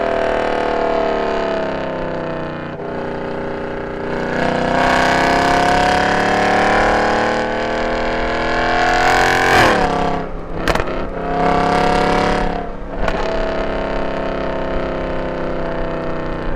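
Mercedes-Benz C63 AMG's M156 6.2-litre V8, with long-tube headers, an X-pipe and no catalytic converters, driven hard on track. The revs fall over the first few seconds, climb steadily for about five seconds, then drop sharply as the throttle closes, followed by a couple of brief dips and steadier running.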